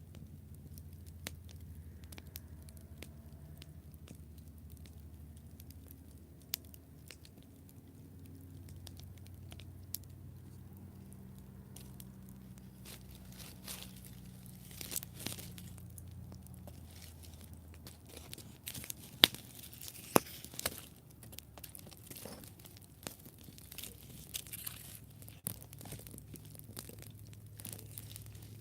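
Wood campfire crackling and popping over a low, steady rumble. Pops are sparse at first and come thick and fast in the second half, with a couple of sharp, loud snaps about two-thirds of the way through.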